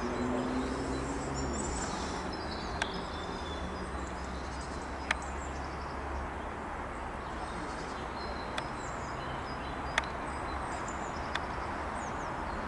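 Small birds chirping and twittering over a steady low rumble of outdoor background noise, with five sharp clicks spread through.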